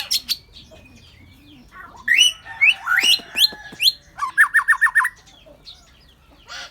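Songbirds singing: a few quick chirps at the start, a phrase of rising whistled notes about two seconds in, then a fast run of about six even notes near five seconds.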